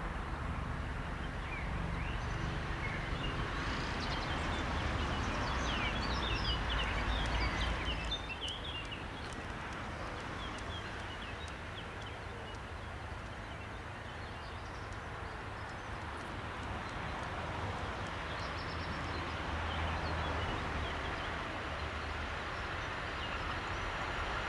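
Small birds chirping over a low background rumble that drops away about eight seconds in. Then the growing noise of a freight train approaching behind a Class 185 electric locomotive, getting louder toward the end as the train nears.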